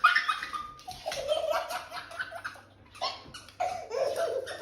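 A person laughing in bursts, with a short pause midway.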